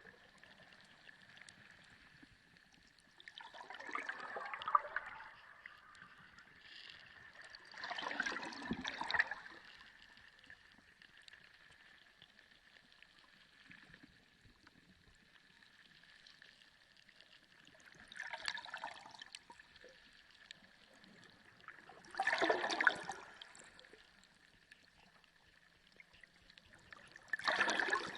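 Sea water gurgling and sloshing in five short surges a few seconds apart, over a faint steady high-pitched hum.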